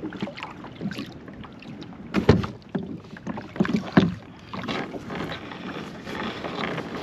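Kayak on the water: irregular splashes and knocks against the hull, with two louder thumps about two and four seconds in.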